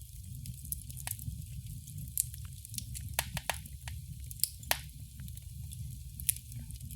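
Wood fire crackling in a fireplace: irregular sharp pops and snaps over a low steady rumble of the burning fire, the loudest pops coming near the middle and once near the end.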